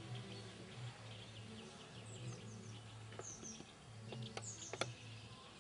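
Songbirds chirping in the trees, many short quick high chirps over a low hum, with a couple of sharp clicks about four and a half seconds in.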